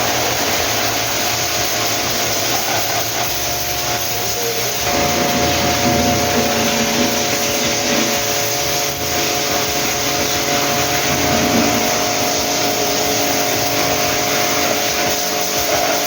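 A small electric motor running steadily with a rushing air noise and a few held tones.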